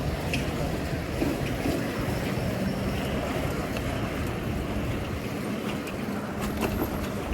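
Steady rush of wind on the microphone and street traffic noise, heard from a moving bicycle, with a low steady hum through the middle.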